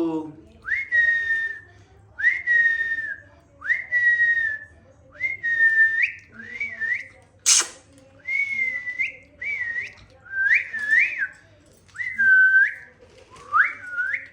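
A series of about ten short, clear whistles, roughly one every second and a half. The first few rise quickly and then hold one pitch; the later ones swoop up and down. There is a single sharp click about halfway through.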